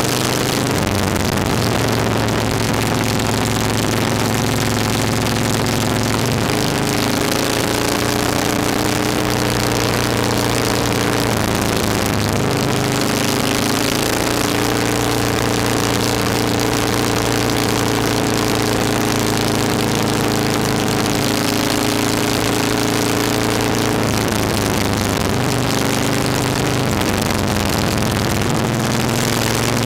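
Motorcycle engine running at a steady road speed, its note shifting in pitch a few times with the throttle, with wind rush over the microphone.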